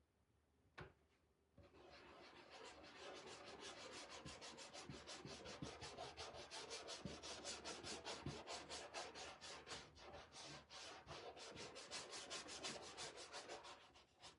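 Dark wax being rubbed into a wooden sign in quick back-and-forth strokes, about five a second. The rubbing starts after a second and a half of near silence and a single click.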